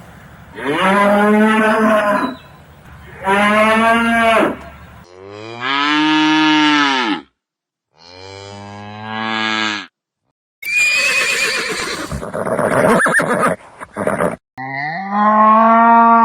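Cattle mooing: a run of about six separate long, drawn-out moos, cut one after another from different recordings. The call a little past the middle is rougher and noisier than the others.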